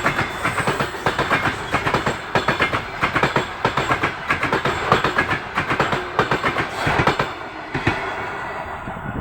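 Passenger train coaches rolling past, their wheels clacking in quick runs over rail joints; the sound thins out and fades over the last second or so.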